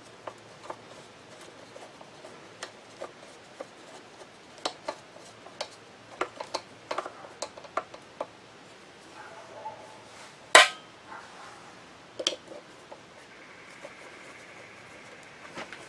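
Small metal parts and hand tools clicking and tapping as a grinder motor is taken apart. About two-thirds of the way through comes one sharp, much louder metallic clank, followed by a softer double click.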